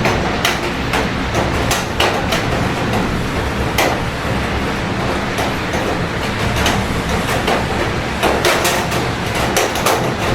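Steady rain with large drops striking a hard surface close by in irregular sharp taps, over a low steady rumble of city traffic.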